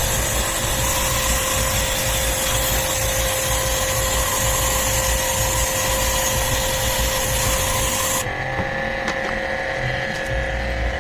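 Pressure washer water jet spraying with a steady hiss over the hum of its pump motor; the spray cuts off about eight seconds in while the pump keeps humming.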